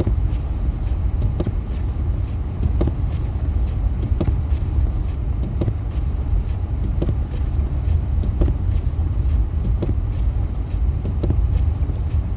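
Steady low road and engine rumble inside a pickup truck's cabin while driving on a snowy road, with a short regular tick about every second and a half.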